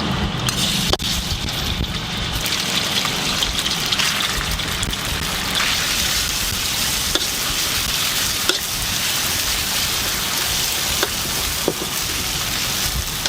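Food frying in a hot wok, a steady sizzle broken by occasional sharp clicks.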